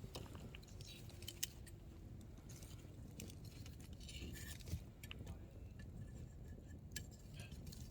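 Hardwood campfire crackling: scattered sharp pops and snaps from the burning firewood at irregular moments over a low steady rumble.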